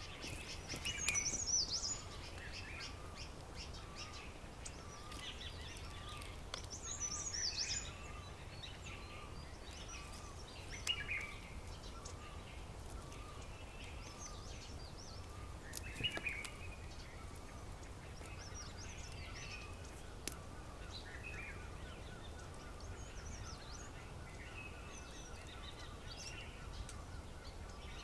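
Several wild birds chirping and calling, with bursts of chirps and trills loudest about a second in and again several times after. One short note repeats about twice a second, over a steady low rumble and a few sharp clicks.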